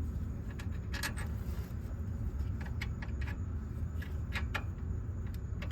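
Scattered light metallic clinks and taps, about eight in a few seconds, as a nut and clamp are fitted to the exhaust with hand tools. A steady low hum runs underneath.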